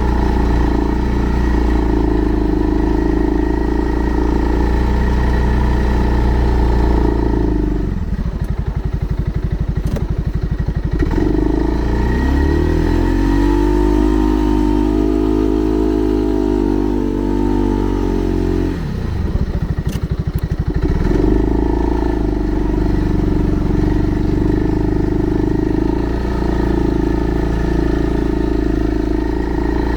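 Segway Snarler 570 ATV's single-cylinder engine running under way. About 8 seconds in, the revs drop to a low throb. They climb and hold high from about 12 to 19 seconds, drop back briefly, and then settle into a steady run again.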